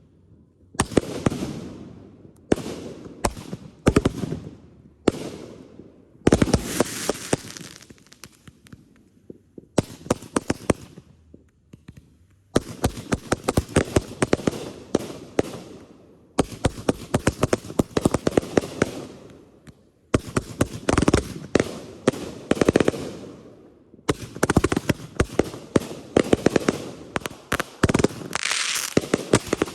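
Consumer fireworks going off in quick succession: sharp bangs of bursting shots and long stretches of dense crackling. From about twelve seconds in, clusters of rapid pops and crackle start every four seconds or so.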